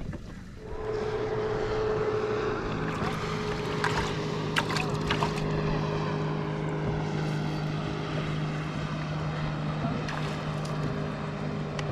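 A boat motor switches on about half a second in and runs steadily with an even hum, with a few light clicks a few seconds in.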